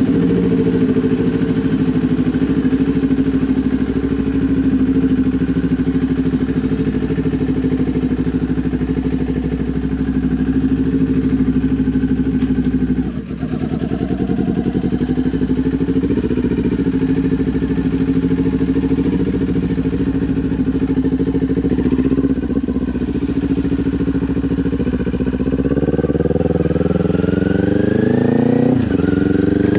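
Kawasaki Ninja 400's parallel-twin engine through an SC Project aftermarket exhaust, heard while riding: a steady cruising note with a brief throttle-off dip about a third of the way in. Near the end the pitch climbs under acceleration, drops at an upshift, and climbs again.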